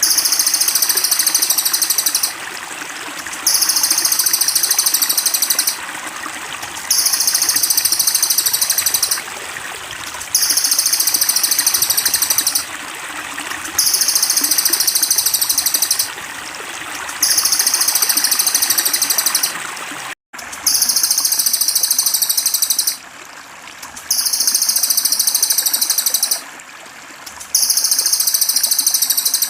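Trickling water runs steadily under a high, very fast trilling call that repeats like a loop, about two seconds of trill then a second's pause, nine times over. The whole sound cuts out for an instant about twenty seconds in.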